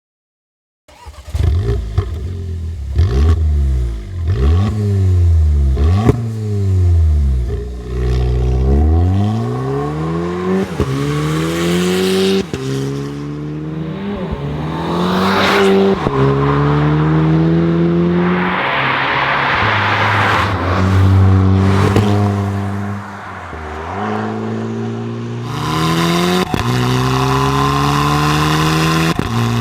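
VW Polo V GTI revving through a REMUS stainless-steel cat-back exhaust, starting about a second in: first a few quick blips up and down, then long rises in pitch broken by sudden drops, like accelerating through the gears. Sharp cracks sound now and then.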